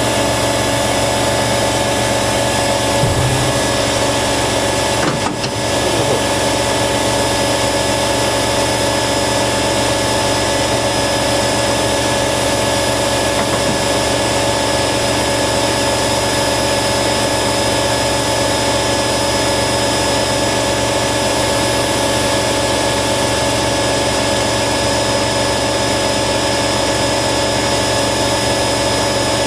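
Hoover WDYNS654D washer dryer running steadily, a constant machine whine from its motor and drum.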